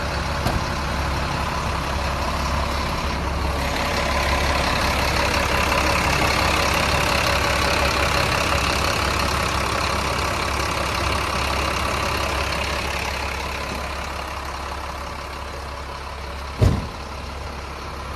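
CAT diesel engine of a medium-duty truck running steadily, growing somewhat louder for several seconds, then easing off. One sharp thump comes near the end.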